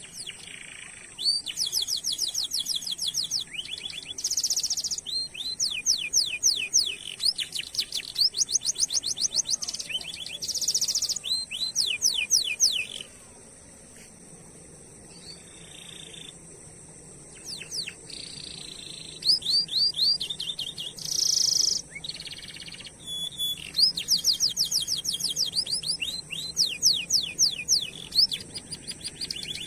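Domestic canary singing long phrases of rapid repeated sweeping notes and buzzy rolling trills, with a short pause about halfway through.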